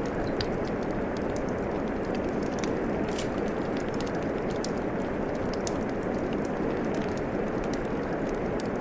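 Steady rain with a wood fire crackling over it: a dense even hiss, and short sharp pops and crackles scattered irregularly on top.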